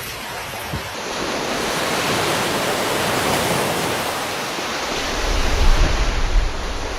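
Steady rushing of sea water, like surf or churning waves. From about five seconds in, low rumbling gusts of wind hit the microphone.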